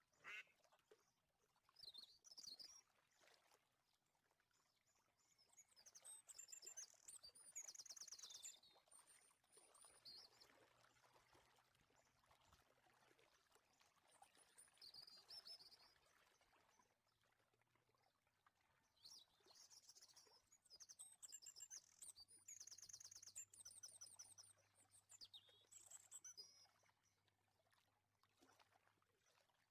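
Faint bird chirps and twitters in short rapid runs of high notes, coming and going.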